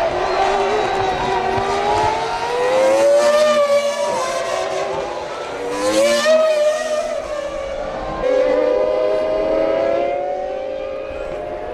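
Formula One car engines running at speed, their pitch rising and falling several times as cars pass and go through the gears.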